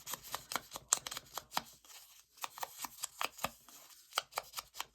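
Paper cut-outs being handled and moved about on a craft desk: an irregular run of light taps and paper rustles, several a second.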